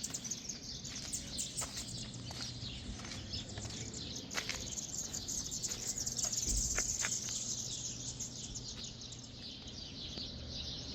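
Outdoor ambience of insects chirping steadily in a high, dense chorus, with a few short bird chirps and a low steady hum underneath.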